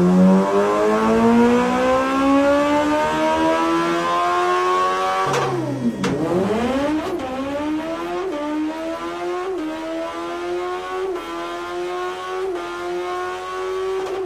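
Suzuki Hayabusa Gen 2's 1340 cc inline-four, stage 1 tuned, being run hard on a motorcycle dynamometer. The revs climb steadily for about five seconds, then the throttle closes and the revs fall. The engine then pulls up again in a series of short rises, each broken by a brief dip.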